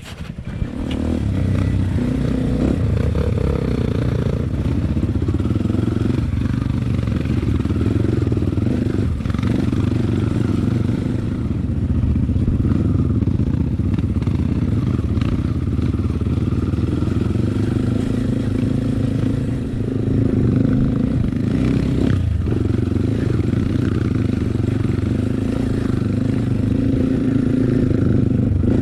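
Off-road motorcycle engine running steadily while under way, its pitch shifting a little with the throttle.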